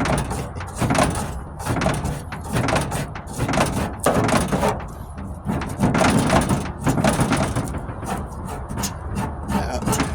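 Stainless Surform flat-blade rasp scraping across cured Bondo body filler on a steel tailgate, in repeated uneven rasping strokes about one a second, roughing the filler down.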